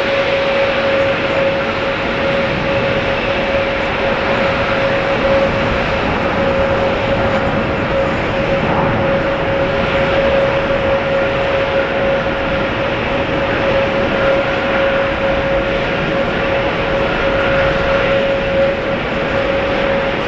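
Jet airliner engines running steadily, a constant rushing noise with one unchanging whine held throughout.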